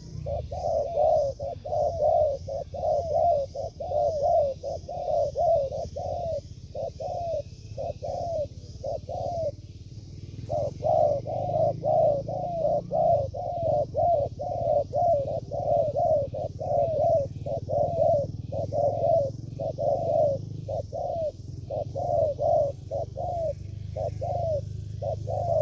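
Spotted doves cooing: a fast run of short coo notes, about two to three a second, with a pause of about a second near the middle.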